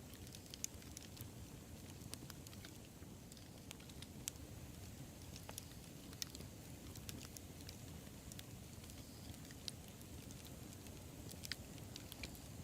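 Bonfire burning: a soft low rumble of flames with irregular crackles and snaps of burning wood, a few sharper pops standing out.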